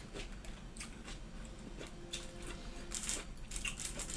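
Close-up eating sounds of a person eating gado-gado: wet chewing and mouth smacks with small, irregular crunches and clicks.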